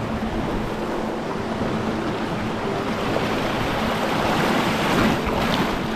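River water rushing over rapids, a steady hiss that swells slightly around four to five seconds in.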